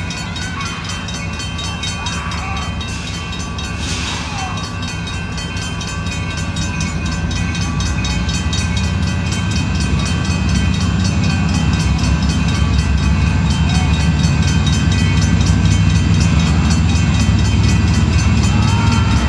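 Diesel freight locomotive engine running with a steady low rumble, growing louder over the first fifteen seconds or so and then holding.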